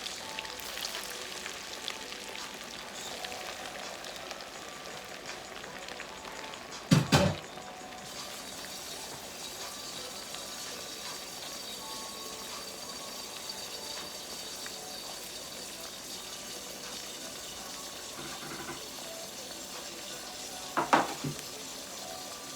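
Croquettes frying in hot oil, a steady sizzle: the oil is hot enough. Two short loud knocks break in, about seven seconds in and again near the end.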